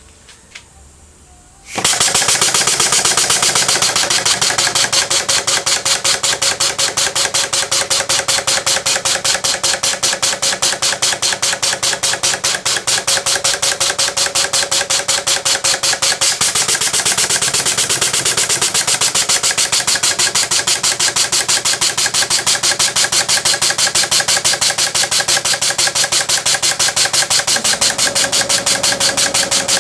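Homemade single-acting model steam engine with motorbike-style poppet valves, driven by compressed air, starting about two seconds in and then running fast with a rapid, even beat of exhaust puffs. The owner says it is not running well and that the crankshaft should be balanced a little more.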